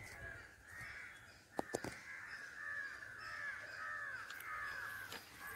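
A bird calling in a fast run of repeated, arching notes. Two sharp clicks come about a second and a half in.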